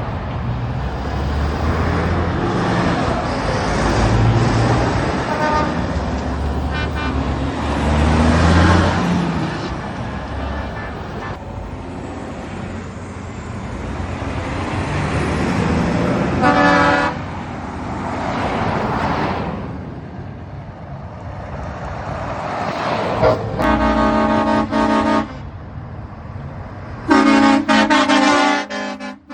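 Heavy trucks driving past with loud engines rising and falling, then truck air horns sounding: a short blast past the middle and two longer blasts near the end.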